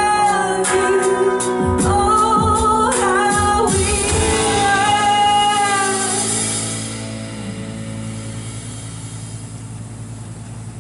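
Live worship band music with singing and drum hits. About four seconds in, the final chord rings out and fades, leaving a low held note.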